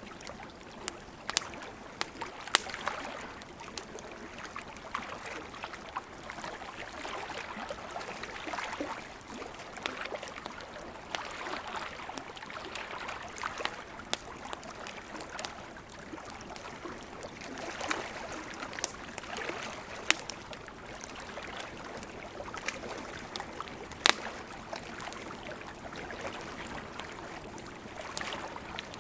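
Campfire crackling, with scattered sharp pops and snaps, over a steady wash of ocean waves that swells and eases.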